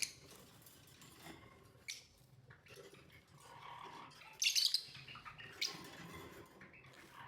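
Lovebirds chirping in short bursts. The loudest is a quick, rapid series of chirps about four and a half seconds in, with a shorter one about a second later.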